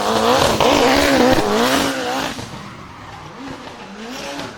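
Drift car sliding with its tyres squealing and its engine revving, the pitch wavering up and down; loudest for the first two seconds, then quieter as the car draws away.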